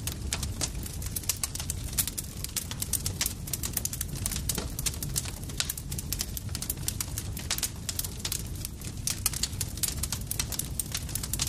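Campfire burning, with a rapid, irregular stream of sharp crackles and pops from the burning wood over a steady low rumble of the flames.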